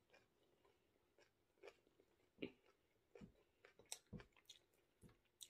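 Faint chewing of a mouthful of water spinach (kangkong) and rice, heard as soft, irregular clicks and smacks.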